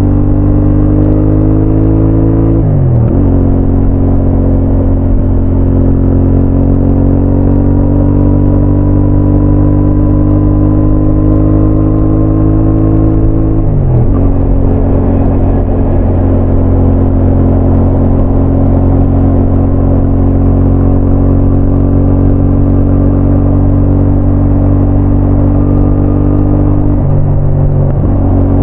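CFMoto 450NK motorcycle's parallel-twin engine pulling under gentle acceleration. Its pitch climbs slowly, then drops sharply at three upshifts, about 3, 14 and 27 seconds in.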